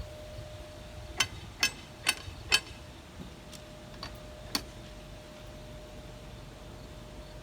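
Sharp, ringing metal clanks: four loud strikes about half a second apart, then three fainter ones, over a faint steady hum.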